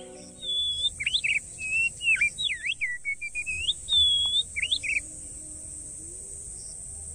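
A songbird singing a quick run of varied whistled notes that slide up and down, lasting about four seconds and then stopping, over a steady high hiss.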